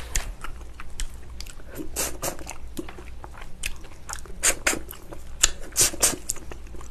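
Close-miked biting and chewing of tender, spicy braised ox foot: a run of wet mouth clicks and smacks, with a few louder ones in the second half.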